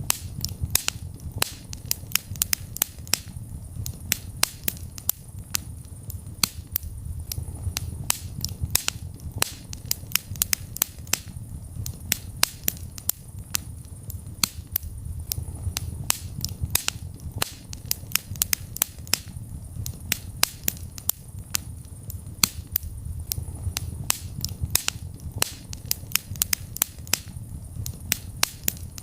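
Wood fire burning in a fireplace, crackling and popping with many sharp snaps a second over a low steady rumble of the flames.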